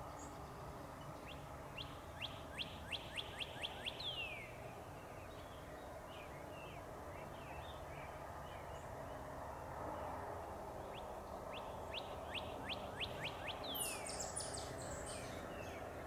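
A bird sings twice: each time a quick run of about eight short whistled notes, falling in pitch, ending in one longer falling note. Faint scattered chirps come between the runs, over steady low background noise.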